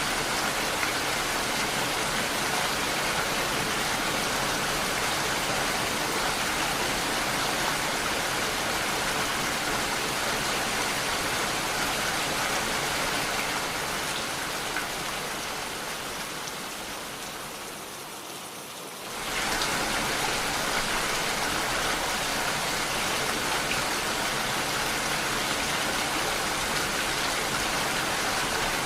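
Steady rain, a dense even hiss of falling drops. About two-thirds of the way through it slowly fades lower over several seconds, then snaps back to full strength all at once.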